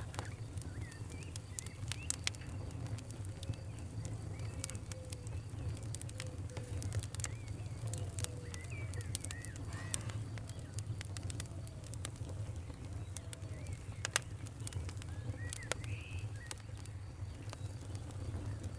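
Wood fire crackling, with irregular sharp pops over a steady low rumble. The loudest pop comes a little past the middle. Faint bird chirps sound in the background throughout.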